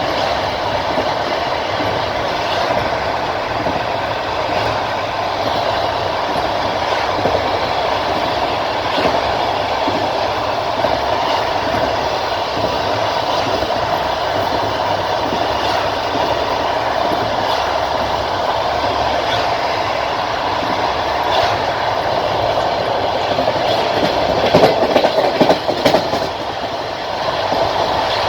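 Passenger train coach running along the track: a steady rumble with the clickety-clack of the wheels over the rail joints, and a cluster of louder knocks about three-quarters of the way through.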